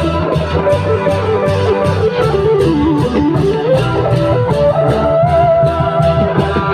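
Isan long-drum procession band playing: an electric plucked-string lead winding up and down over a heavy bass and a steady percussion beat of about four strokes a second.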